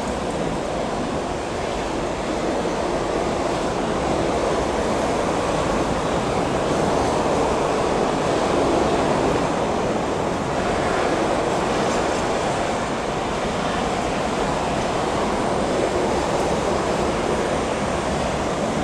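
Passenger coaches of a Guangzhou–Kowloon through train rolling along the track, a steady rushing rail noise without distinct wheel clicks, swelling slightly about halfway through.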